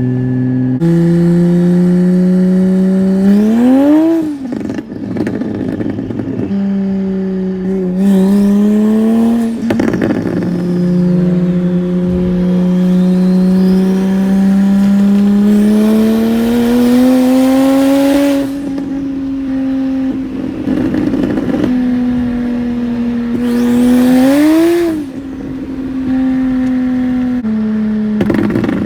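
BMW 335i's N54 inline-six, converted to a single turbo, pulling hard several times. The engine note climbs in pitch on each pull, then falls away into a short rush of noise as the throttle lifts and the revs drop.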